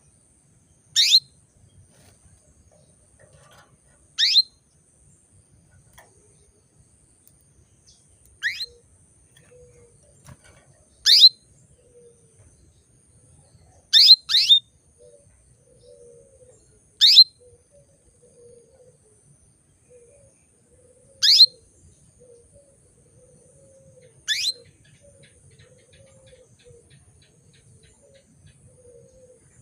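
Female canary calling to males: single short chirps, each a quick downward-sliding note, repeated about every three seconds, one given as a double chirp.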